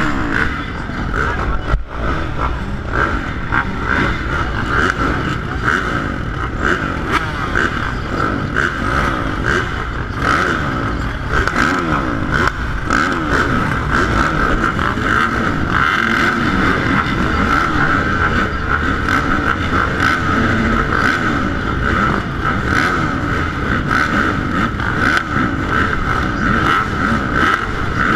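450-class motocross bikes racing, their engines revving up and down constantly with the throttle. There is one sharp knock about two seconds in.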